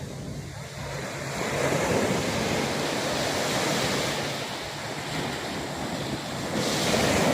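Sea waves breaking on the shore. The surf swells about a second and a half in and again near the end.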